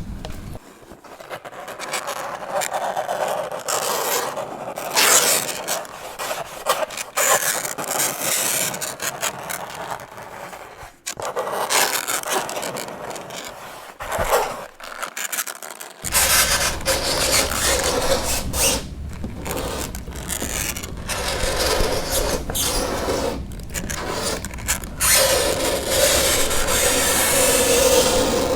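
Fingernails scraping across a chalkboard in a run of uneven strokes of varying length with short breaks between them. Near the end comes a long scrape with a steady pitched squeal.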